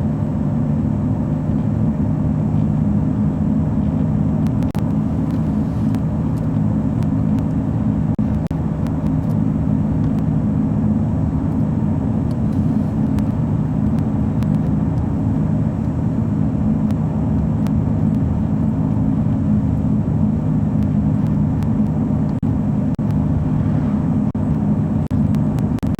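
Steady low drone of a vehicle's engine and road noise, heard from inside the moving vehicle.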